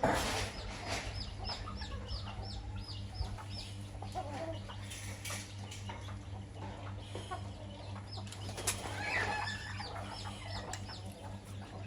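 Chickens feeding and clucking, with runs of short high-pitched peeps about four a second, twice, over a steady low hum.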